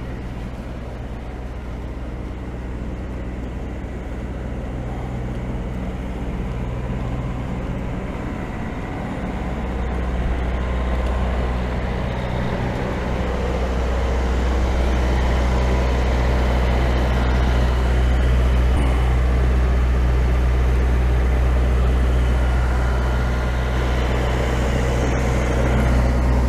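Perkins 4-108 four-cylinder marine diesel engine running steadily, with a deep, even drone that grows louder over the first fifteen seconds or so and then holds.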